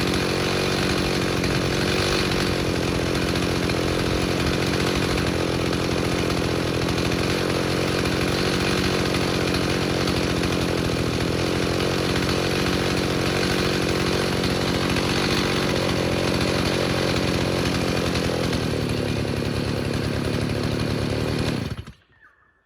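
Freshly rebuilt Stihl 029 two-stroke chainsaw with a 45 mm cylinder running steadily at high revs, then stopping abruptly near the end.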